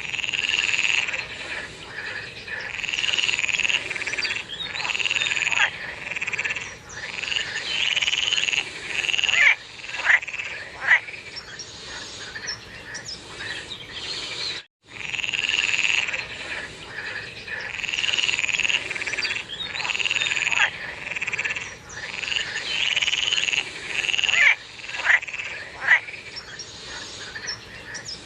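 Frogs calling in a chorus, repeated calls of about a second each overlapping one another, with a few sharper downward-sweeping calls standing out; the sound drops out briefly near the middle.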